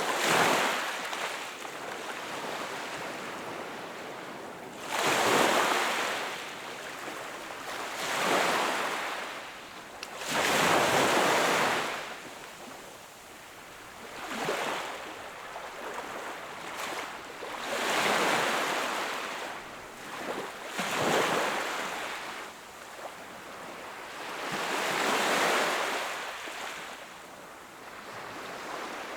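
Sea waves breaking and washing onto the shore, swelling into a surge every few seconds, about eight times, with a steady wash between them.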